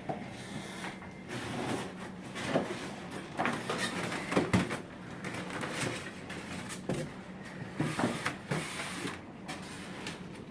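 Rummaging: scattered rustling, clicks and knocks, as of things being handled and a cupboard opened and closed, over a steady low hum.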